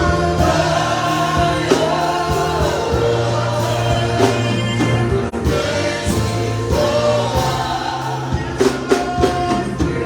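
Gospel worship music with a choir singing over a steady bass line.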